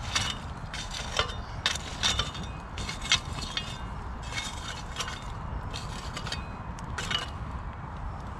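Lumps of barbecue charcoal clinking and knocking together in irregular sharp clicks as they are stacked up against a pipe, thinning out near the end, over a steady low rumble.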